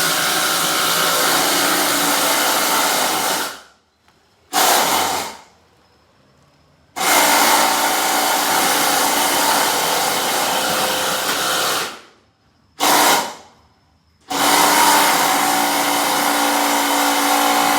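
12-volt cordless impact driver hammering a large Torx-drive screw into wood under heavy load, run in three long bursts of about four to five seconds with two short trigger pulses between them.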